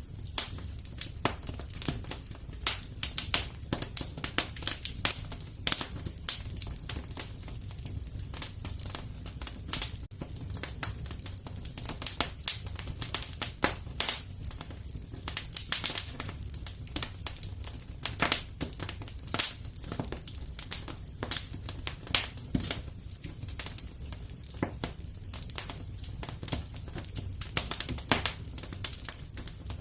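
Wood fire crackling in a fireplace: irregular sharp pops and snaps, some loud, over a steady low rumble.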